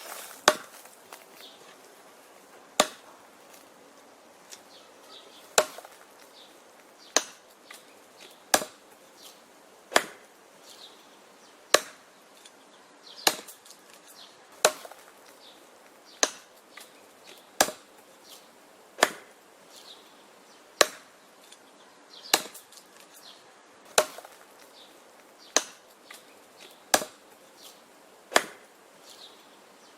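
Wood being chopped: sharp, regular chopping strikes about every one and a half seconds, some harder than others, with light knocks of wood between them.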